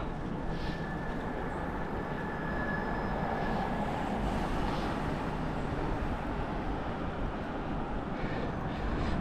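Steady rushing noise of a bicycle ride: wind on the microphone and tyres rolling on pavement.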